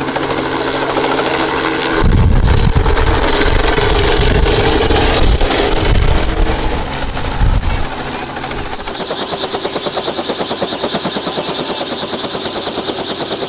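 Tour helicopter's rotor blades chopping: a heavy low rumble in the first half, then a rapid, even beat of blade slaps from about two-thirds of the way in.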